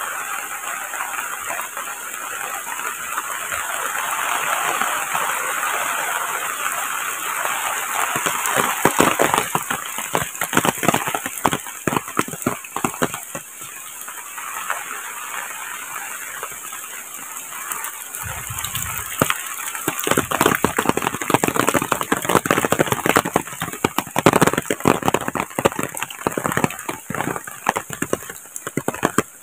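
Rain falling on leaves and a wet concrete path, a steady hiss scattered with many sharp, close drop hits that come thicker in the second half.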